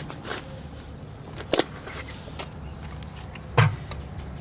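Brake caliper parts and bolts being handled: a few separate sharp metal clicks, the sharpest about a second and a half in, and a duller knock near the end.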